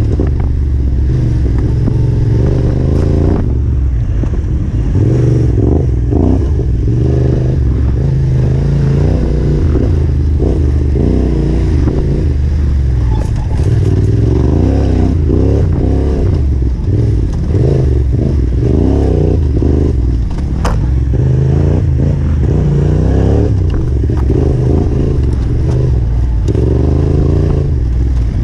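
Yamaha Ténéré 700's parallel-twin engine riding single track, its pitch rising and falling constantly with the throttle, with a few sharp knocks from the trail.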